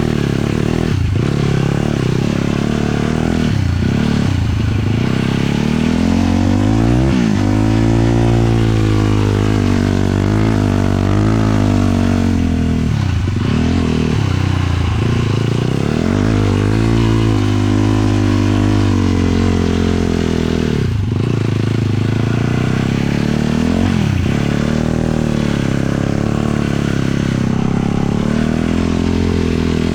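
450 sport quad's single-cylinder four-stroke engine riding under changing throttle: the revs climb and sag over several seconds, with sharp dips each time the throttle is chopped, several times across the stretch.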